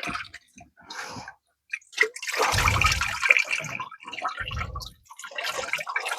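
Water splashing and sloshing in uneven bursts, loudest for a stretch starting about two seconds in.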